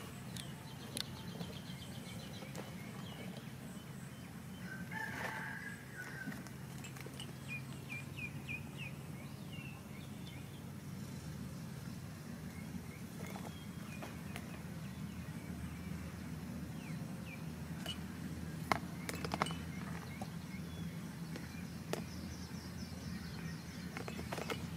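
Outdoor background of bird calls over a steady low hum: a short pitched call about five seconds in, then runs of quick high chirps, with a few sharp knocks in the last third.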